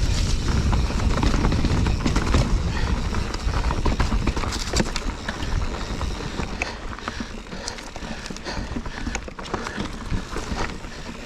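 Full-suspension mountain bike rolling over rocky singletrack: tyres crunching on rock, with irregular clicks and rattles from the bike. A heavy low rumble in the first few seconds eases off after about four seconds.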